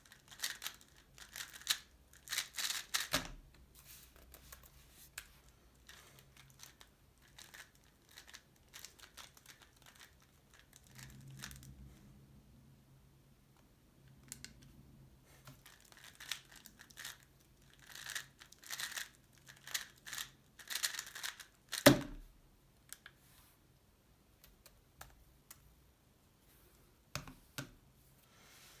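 Tornado V3 Pioneer 3x3 speedcube being turned fast, its layers clacking in quick rapid runs, with a sharp knock about three seconds in and a louder one about three-quarters through.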